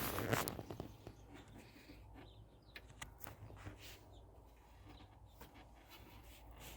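Faint handling noises: scattered small clicks and scratching, with a louder rustle right at the start, over a low steady hum.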